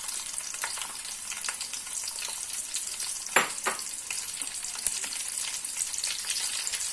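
Green chilies and onions frying in hot oil and ghee in a pan, a steady sizzle, with stirring and two sharp knocks against the pan a little past halfway.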